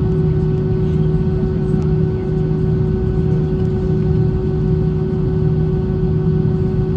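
Airbus A320 cabin noise in flight: a steady low drone of engines and rushing air, with a constant hum tone over the rumble.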